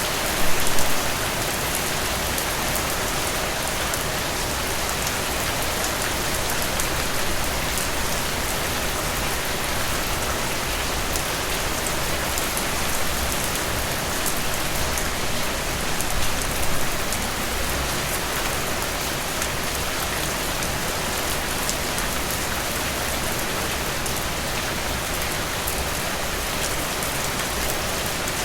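Heavy rain falling in a steady hiss, with fine scattered drop patter. Brief louder swells of rain come about a second in and again around the middle.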